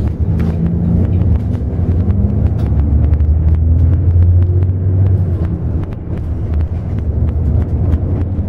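Engine and road noise of a moving bus heard from inside the cabin: a steady low rumble that swells about three to five seconds in and eases off a little around six seconds.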